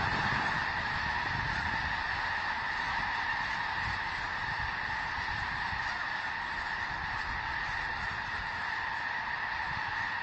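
A large flock of birds calling all at once, many overlapping calls merging into a continuous din that barely changes.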